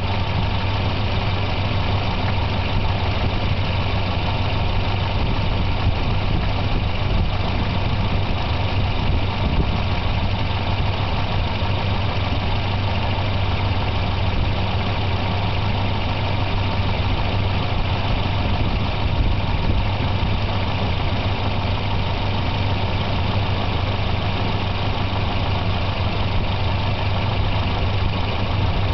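Volvo 240 engine idling steadily throughout. The idle is better but not perfect after new ignition wires and a new intake manifold gasket, and the owner asks whether it is still rough.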